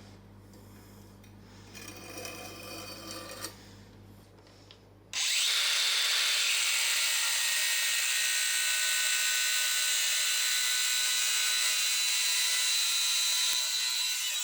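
Faint handling and rubbing sounds, then about five seconds in a power tool starts abruptly and runs steadily, with a high whine over a loud hiss.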